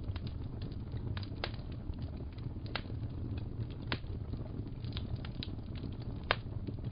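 Wood fire crackling in a fireplace: a steady low rumble with sharp, irregular pops, roughly one a second.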